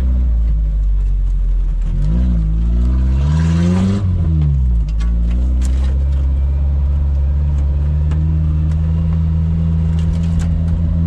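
Suzuki Samurai 4x4's engine running and revving: the pitch rises about two seconds in, peaks near four seconds, then drops back and holds steady. A few sharp knocks sound over it.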